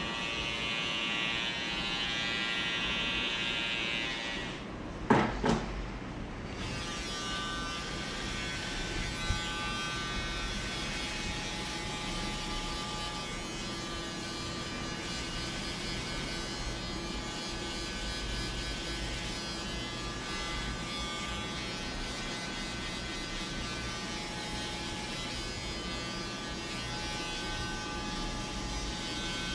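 Barber's electric trimmer buzzing steadily during a haircut line-up. About five seconds in there are two sharp clicks and the buzz changes pitch, then it runs on steadily.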